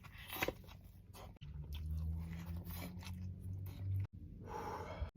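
A person chewing and crunching on a taco close to the microphone, with scattered short crunches and wet mouth clicks.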